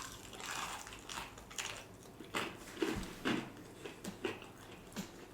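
Close-miked chewing and biting of fried chicken: irregular soft crunches and wet mouth sounds, about two a second.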